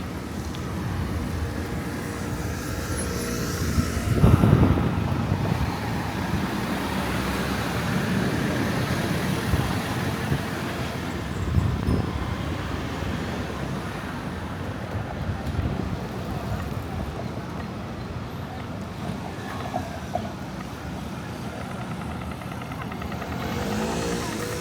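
City street traffic noise: vehicles passing, with a louder low rumble of something going by about four seconds in and another near the twelve-second mark.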